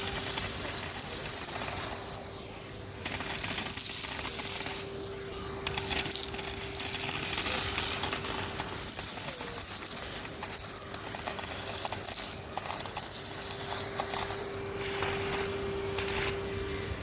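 Numatic Henry HVR 200-22 cylinder vacuum running with a steady motor whine and rushing air, while grit and small debris from the street surface crackle and clatter up the hose.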